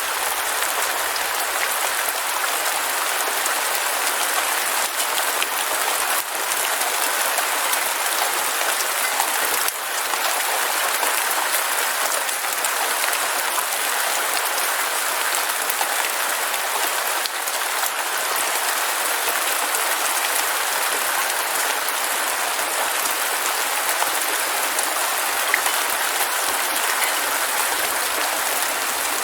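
Heavy rain falling steadily, a dense even hiss of many drops with a few sharper drop taps.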